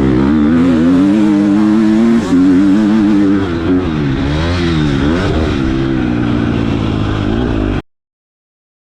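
Motocross bike engine revving, its pitch rising and falling again and again with the throttle. It cuts to silence abruptly near the end.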